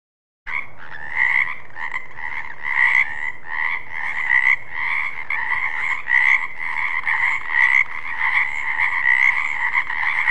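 Frog croaking: repeated calls pulsing about one and a half times a second, starting suddenly about half a second in.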